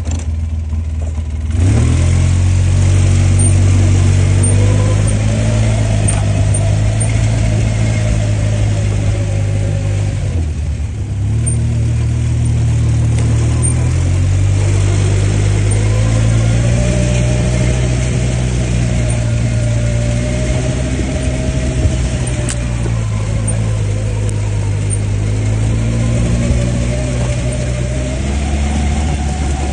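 ATV engine running under way, its revs picking up about two seconds in, dropping briefly around ten seconds in, then holding steady before climbing again near the end.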